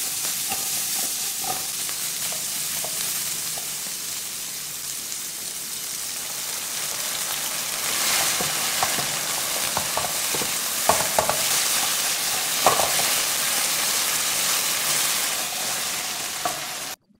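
Green beans and garlic sizzling in a nonstick frying pan while a silicone spatula stirs them. About eight seconds in, the sizzle grows louder as the cornstarch slurry goes in, and the spatula knocks against the pan a few times. The sizzle cuts off suddenly near the end.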